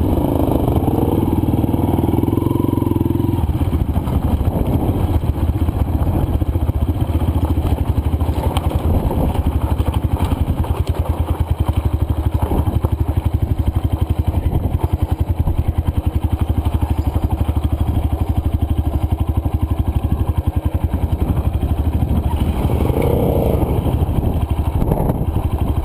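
Single-cylinder four-stroke dirt bike engine running steadily under way on a trail, its firing pulses rapid and even.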